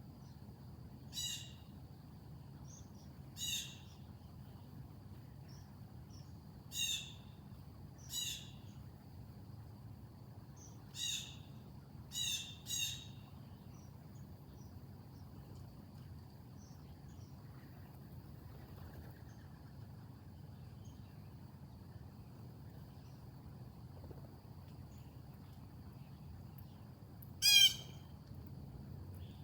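Harsh, raspy bird calls: about seven short calls spaced a second or a few seconds apart, then a pause, then one much louder call near the end. A faint steady high-pitched insect drone runs underneath.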